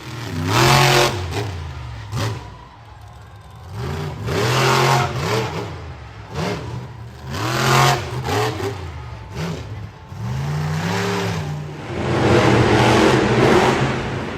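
Monster truck engine revving hard again and again, pitch climbing and dropping in about four blips, then a louder, rougher stretch near the end.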